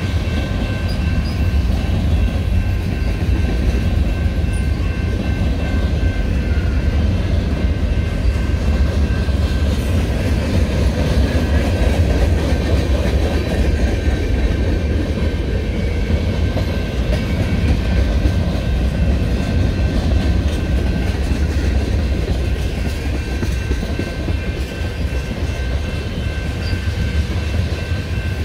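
Freight train cars (covered hoppers and tank cars) rolling past at steady speed: a continuous heavy low rumble of wheels on rail, with faint steady high-pitched tones over it.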